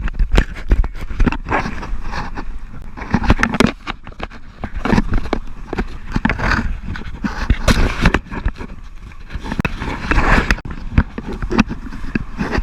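Irregular knocks and scraping, many sharp hits in quick succession with rougher scraping noise between them.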